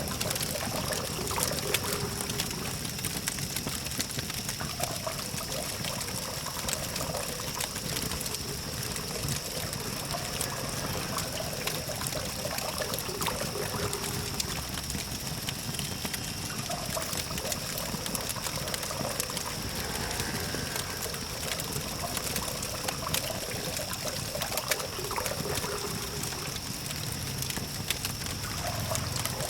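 Campfire crackling, with many small sharp pops scattered throughout, over the steady low hum of distant traffic and a thin, steady high tone.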